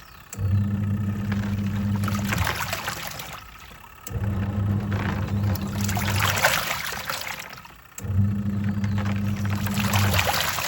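Twin-tub washing machine's wash tub agitating a load in water: the pulsator motor hums for about two seconds, stops briefly, then starts again in the reverse direction, three times over, with water sloshing and swishing throughout.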